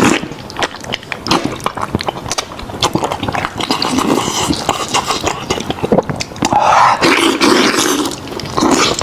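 Close-miked eating sounds of someone gnawing goat head meat: wet chewing, lip-smacking and sucking as a dense run of quick clicks, with a louder, fuller stretch about seven seconds in.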